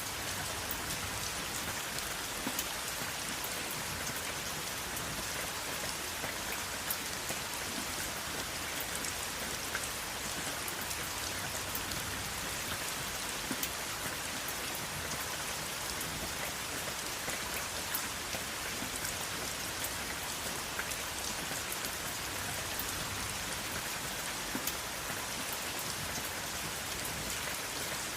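Steady rain falling on a surface, an even hiss with many separate drops ticking and pattering through it, and no thunder.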